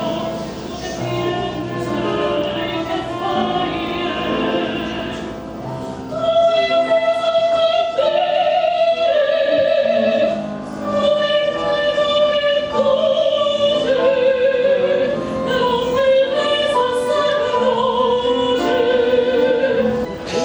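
Classical music: operatic singing with orchestral accompaniment, the voice holding long notes with a wide vibrato. It grows louder about six seconds in.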